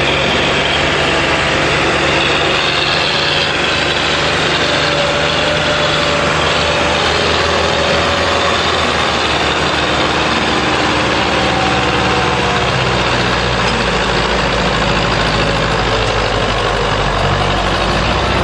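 Tractor diesel engine running loudly and steadily; the low engine note shifts about two-thirds of the way through.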